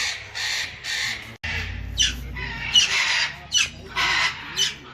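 Parrots squawking, harsh repeated calls about two a second, then after a sudden break about a second and a half in, more squawks overlapping.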